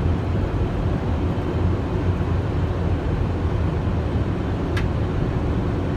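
Steady rush of airflow and engine noise on an Airbus airliner's flight deck during the landing approach, with a single faint click a little before the end.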